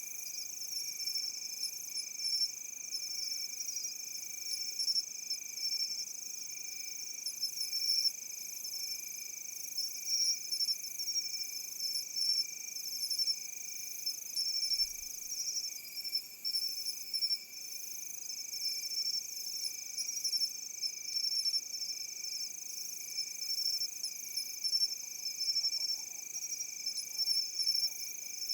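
Crickets and other grass insects singing in chorus: several steady high trills at once, with rapid pulsing chirps over them.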